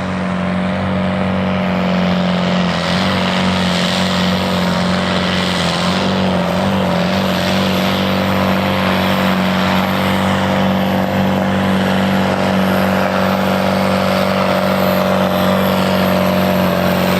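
Ford 5000 tractor engine running hard at high revs, pulling a weight-transfer sled. Its steady note dips and wavers briefly a few seconds in, then holds.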